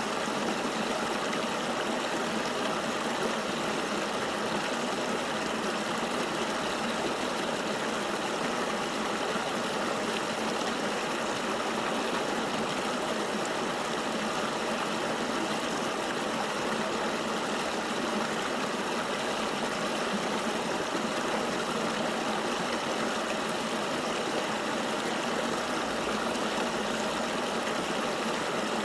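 River water flowing steadily, an even rushing with no change in level and very little deep rumble.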